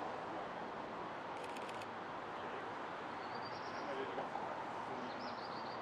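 Steady outdoor background noise, with a small bird giving two short runs of quick high chirps in the second half. A brief run of faint high clicks comes about a second and a half in.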